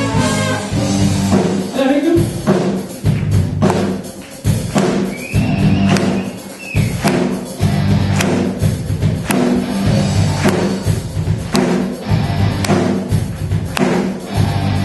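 Brass band playing an up-tempo funk tune: a low brass bass line under steady drum hits, with horns holding notes over it.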